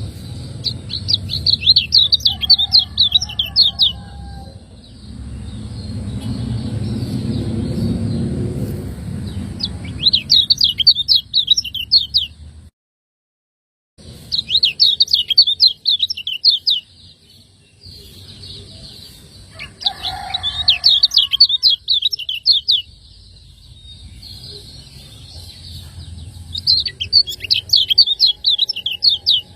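Kecial kuning white-eye singing its 'ciak' song: five bursts of rapid, high chirps, each lasting a few seconds. A low rumble runs in the background between bursts, and the sound cuts out completely for about a second midway.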